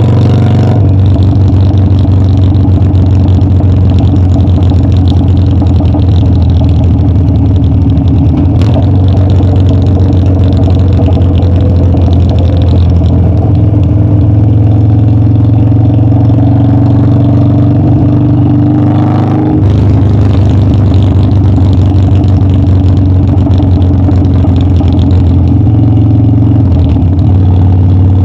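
Harley-Davidson Dyna's air-cooled V-twin engine running loud and steady while under way. Its note slowly rises and then breaks with a brief dip about two-thirds of the way in.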